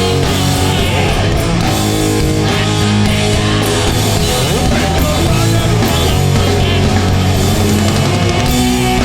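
Live hardcore punk band playing loud, with distorted electric guitars, bass and drum kit.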